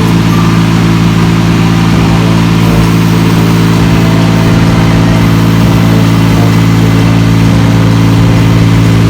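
An engine idling steadily and loudly, its pitch holding level with no revving.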